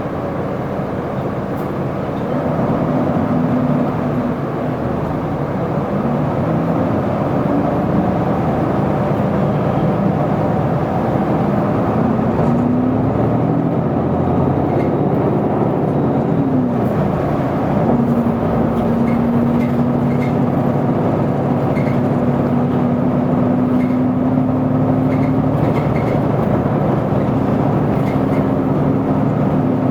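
Isuzu Erga city bus's diesel engine and drivetrain heard from inside the cabin while the bus drives along. The pitch rises and falls in the middle as it speeds up and changes gear, then holds a steady drone.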